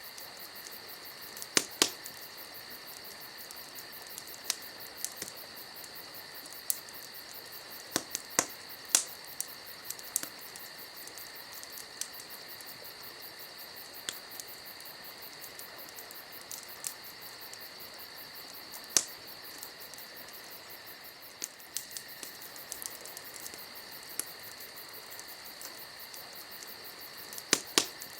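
Campfire crackling: irregular sharp pops and snaps from the burning wood, over a steady high chirring of crickets.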